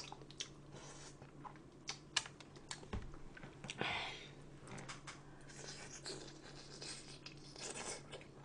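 Quiet eating sounds: irregular small clicks and scrapes of utensils against a plastic lunchbox, with a brief rustle about four seconds in.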